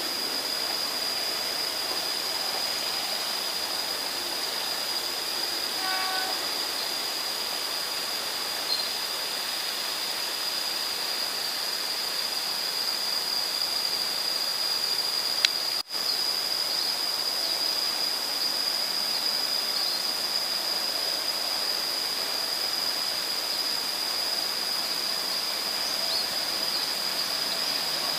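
Distant passenger trains on the line: a steady hiss with a continuous high thin whine, and a short train horn about six seconds in. Just past halfway comes a click and a momentary dropout.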